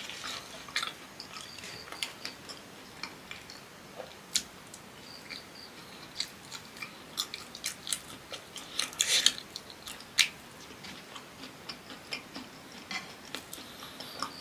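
Close-miked chewing and biting of fried cassava, with short sharp clicks and crackles scattered throughout. They come thickest about nine seconds in.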